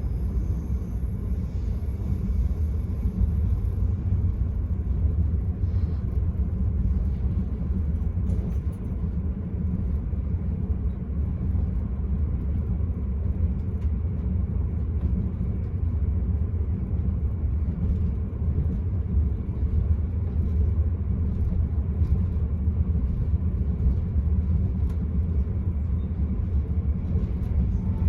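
Enterprise passenger train running at speed, heard from inside the carriage: a steady low rumble of wheels on the rails.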